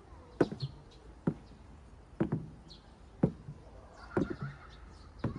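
A series of sharp knocks or taps, about one a second, six in all.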